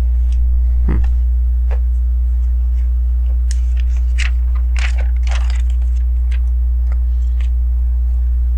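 LEGO plastic bricks being handled and pressed together: scattered small clicks and scrapes, a quick cluster of them around the middle, over a loud steady low electrical hum.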